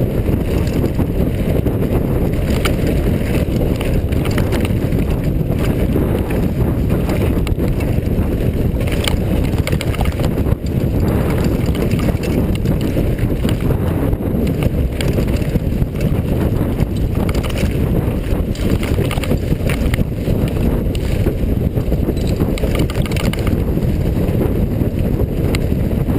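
Steady wind buffeting on a helmet camera's microphone while a mountain bike is ridden along a trail, with scattered rattles and clicks from the bike.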